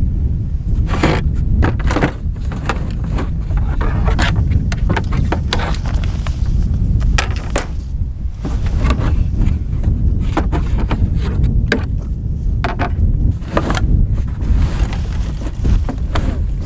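Gusty wind buffeting the microphone, with repeated rustles, scrapes and knocks of camping gear being pulled out and handled.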